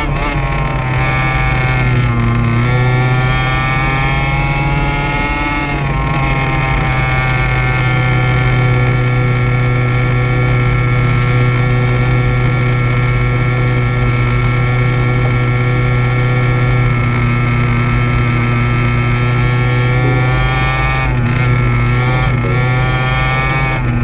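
29cc two-stroke engine of an HPI Baja 5SC RC truck running at a steady speed through a side exhaust pipe, its pitch wavering a little in the first few seconds.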